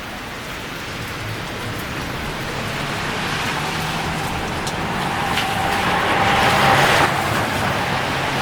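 A car passing on a wet road after a hailstorm: tyre hiss swells over several seconds, peaks about seven seconds in, then falls away, over a low engine hum.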